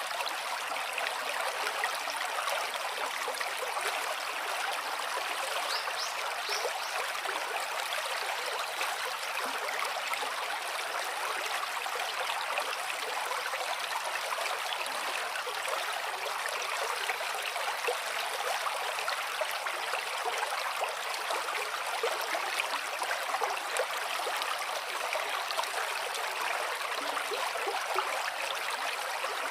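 Gently flowing water, a steady, even rush with no pauses or changes.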